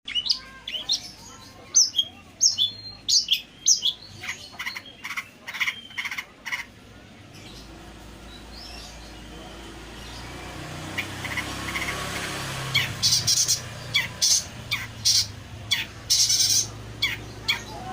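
Long-tailed shrike singing a fast run of sharp chirps and harsh squawking notes. The calls break off for several seconds in the middle while a hiss swells, then return as dense, harsh chattering.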